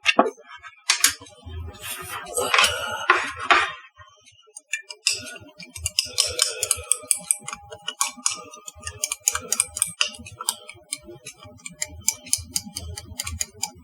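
Handling of melted dark chocolate: a rustling, scraping burst a few seconds in, then a long run of quick irregular clicks and crinkles.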